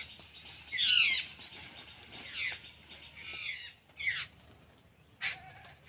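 A bird calling about five times in harsh, short calls, each falling in pitch, the first the loudest.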